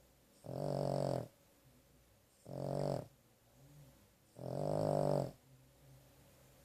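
A sleeping Boston terrier snoring: three loud snores about two seconds apart, each lasting under a second, with soft breathing between them.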